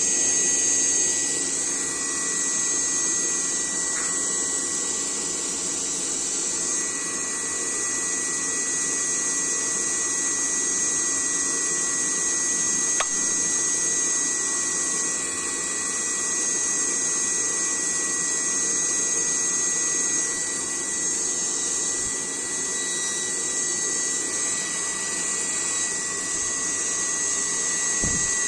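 Small electric motor fan of a homemade air cooler running steadily, with an even, high-pitched whine over a hiss.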